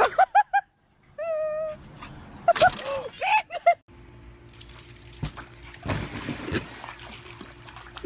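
A dog whimpering and yipping in short high-pitched cries, several in quick succession, with one longer held whine. Midway the cries stop, and the rest is quieter, with soft knocks and rustling.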